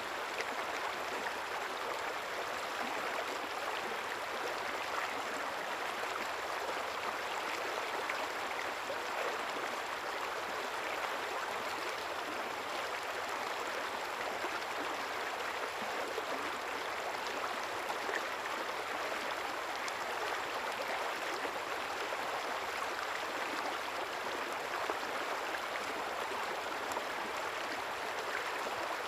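Steady flow of a river or stream, an even rush of water with light gurgling throughout.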